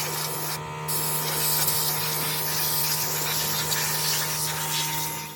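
Steady hiss over a constant low machine hum, unbroken throughout, like a spray or air tool running continuously.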